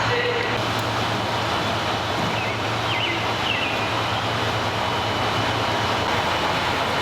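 JR Shikoku KiHa 32 diesel railcar, its engine running with a steady low drone.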